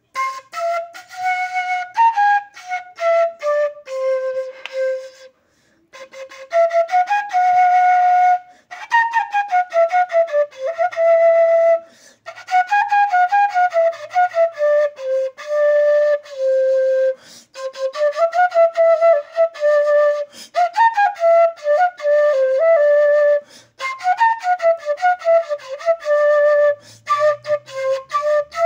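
A solo flute playing a melody of quick runs of separate notes that step up and down, with short breaks between phrases.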